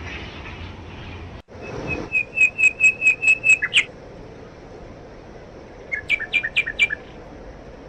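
A songbird calling rapid runs of sharp repeated high notes, about five a second: a run of about nine notes, then a shorter run of about five near the end, over a steady low hiss.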